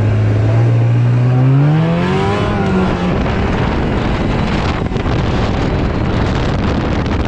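Arctic Cat F570 two-stroke snowmobile engine running steadily, then revving up in a rising pitch about a second and a half in. After that the engine note is lost under heavy wind and track noise as the machine moves off at speed.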